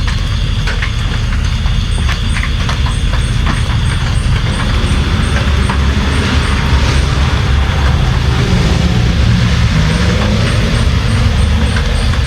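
Steady heavy rain with a deep rumble underneath and scattered sharp drop impacts. A faint high chirp repeats about twice a second for stretches.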